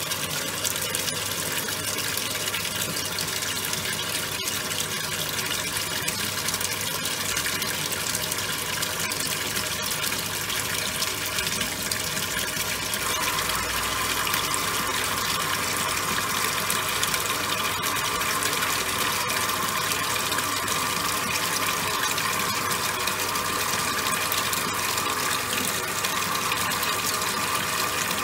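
Top-loading washing machine washing towels: water churning and sloshing steadily in the drum with the machine's running hum. A higher tone grows louder about halfway through.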